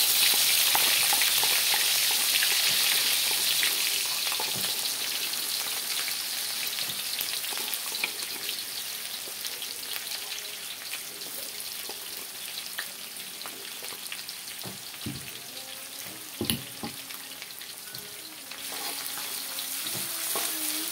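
Chopped garlic, shallots and ginger frying in hot oil in a wok: a loud sizzle as they go in that slowly dies down, then grows again near the end as a spatula stirs them.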